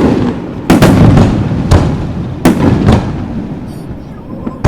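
Aerial firework shells bursting overhead: about five sharp booms in quick succession, each followed by a rolling low rumble, then the rumble dying down with a few faint crackles near the end.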